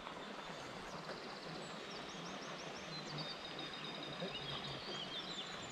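Quiet outdoor ambience with a small bird singing high, quick chirps and a trill from about two seconds in until near the end.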